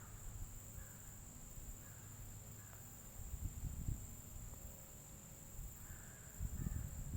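Faint outdoor ambience: a steady high insect drone like crickets, a few faint distant chirps, and two short low rumbles, one about halfway through and one near the end.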